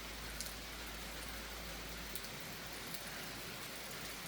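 Steady rain falling, with water running off the roof spout and scattered drips.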